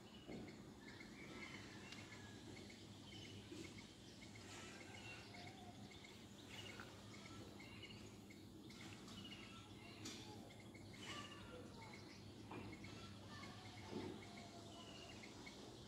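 Faint outdoor ambience: scattered short bird chirps and calls over a low steady background hum.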